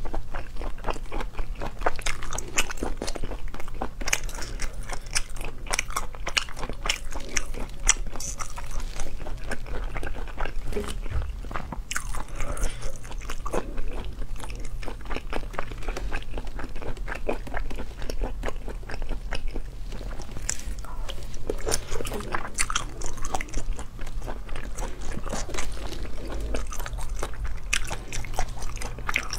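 Close-miked eating of sea snails in spicy oil: biting and chewing, a steady stream of short wet clicks and crunches, with fingers pulling the snails apart.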